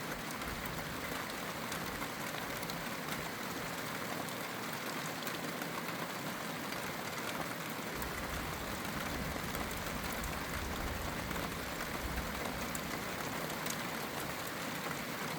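Steady rain falling, an even hiss with faint scattered drop ticks. A low rumble comes in about halfway through and holds.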